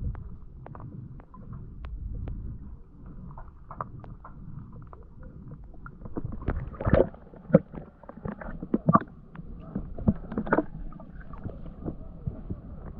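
Muffled, low rumbling water noise with scattered sharp knocks and clicks, which come thickest and loudest in the second half.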